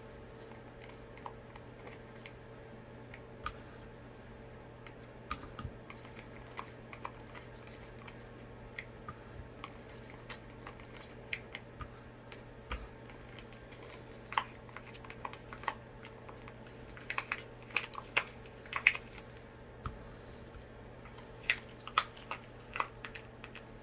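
Stirring stick clicking and scraping against the sides of a mixing cup as two-part epoxy resin is stirred, in irregular light clicks that come louder and more often in the last few seconds, over a faint steady hum.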